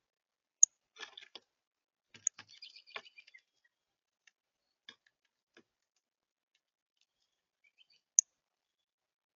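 Birds at a feeder: three sharp, very short high chip notes, the loudest near the start and end. Between them come scattered clicks and scratchy rustles, busiest in the first few seconds.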